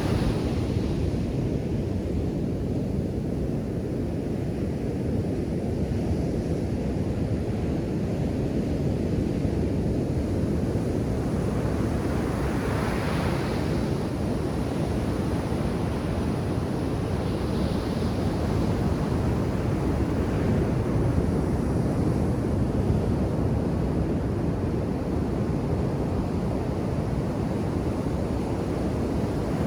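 Ocean surf breaking onto a beach: a steady low rushing wash, with waves crashing and hissing a little brighter a few times, about 13, 18 and 20 seconds in.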